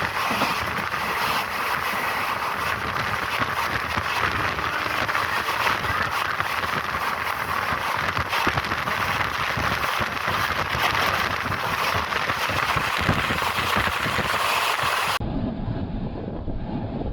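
A running train: a steady rushing hiss with dense, irregular rattling clicks. About fifteen seconds in it cuts abruptly to a duller low rumble with wind buffeting the microphone.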